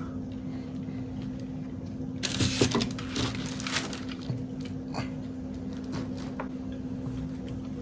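Close-miked chewing and mouth sounds from eating a toasted bologna and egg sandwich: crackly clicks and wet smacks, busiest from about two to four seconds in, over a steady low hum.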